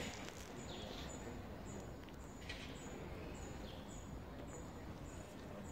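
Faint outdoor street ambience with a bird's short, high chirp repeating evenly about twice a second, and a few other brief bird calls.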